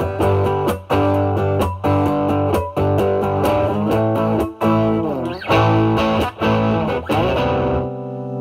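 Electric guitar (a Fender Stratocaster) played through a Vertex Steel String Clean Drive MK1 overdrive pedal, set to gain 9, into the drive channel of a Marshall Valvestate amp. It plays overdriven strummed chords with string bends, and near the end a chord is left to ring.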